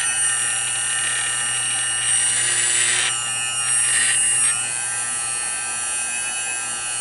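Dumore Tom Thumb tool post grinder motor running steadily at speed with a high-pitched whine, on its first test run after the motor was rewired.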